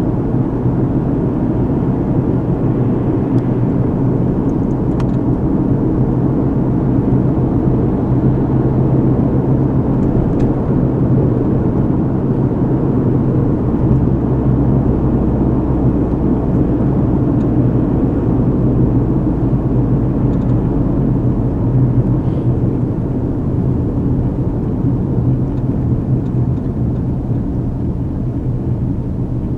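A car driving, heard from inside the cabin: steady low road rumble with a constant engine hum that barely changes.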